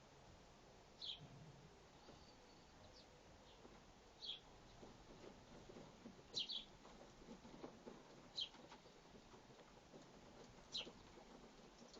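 Sparrow giving single short, high chirps, one about every two seconds, each dropping slightly in pitch.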